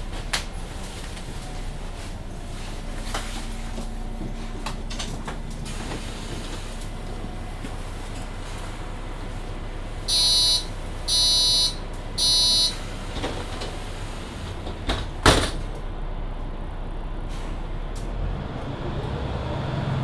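Cabin of a Mercedes-Benz Citaro C2 hybrid city bus: steady interior noise, then three short electronic beeps near the middle, followed a few seconds later by one loud knock, the door-closing warning and the doors shutting. Near the end a low rumble builds as the bus moves off.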